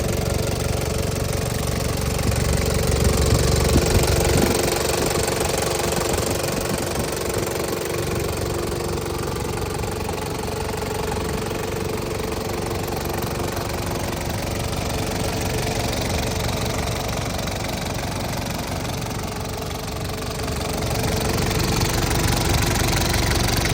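Engine of a 1996 Toyota Prado running at a steady idle. The deep rumble eases about four seconds in and returns near the end.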